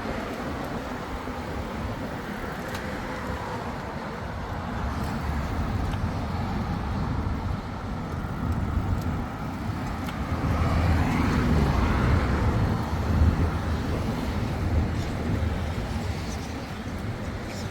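Road traffic on a highway, a steady rumble of passing cars, louder for a few seconds around the middle as vehicles go by.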